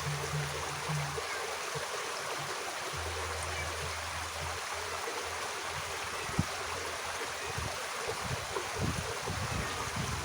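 Water flowing steadily in a small irrigation ditch, a continuous even rushing hiss. A single sharp click about six seconds in.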